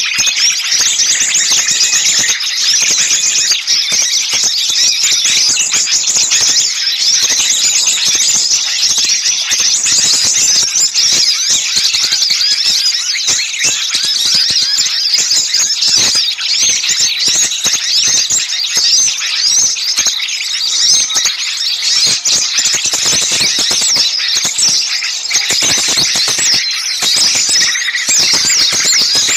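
Dense chorus of many small songbirds chirping and chattering shrilly at once, with no pause. It is a noisy small-bird lure call, played to draw other small birds in.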